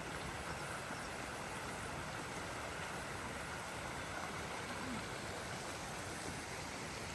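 Steady rushing of a stream's running water, even and unbroken.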